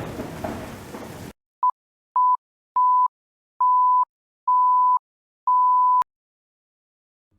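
A rumbling, rain-like noise that cuts off abruptly about a second in, then six electronic beeps of one steady pitch, each held longer than the one before, ending in a click.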